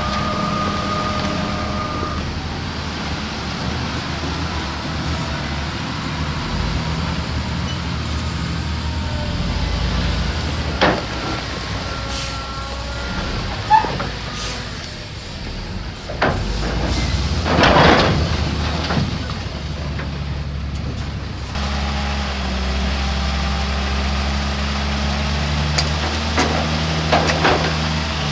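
Heavy diesel engines of a crawler bulldozer and dump trucks working, a steady low drone that grows heavier about three-quarters of the way in. A burst of hissing, like an air-brake release, comes about two-thirds of the way through, along with a few sharp clanks.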